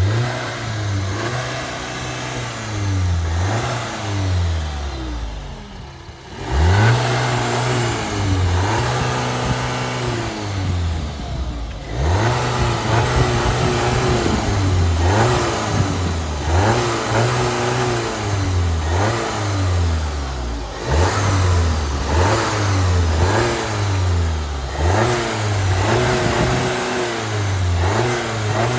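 Audi A1 Sportback S line's engine being revved again and again, its pitch climbing and falling back every second or two, with short lulls about six and twelve seconds in.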